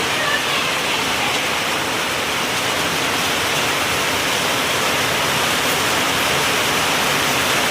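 Heavy, steady rain pouring down, an even dense hiss of water.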